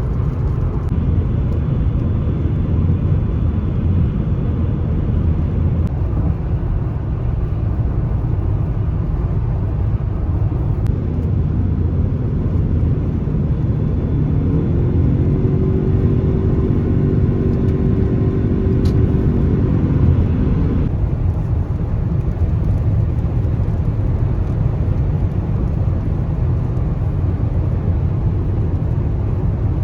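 Car driving: a steady low rumble of engine and road noise. Midway a pitched hum rises and holds for about six seconds, then stops suddenly.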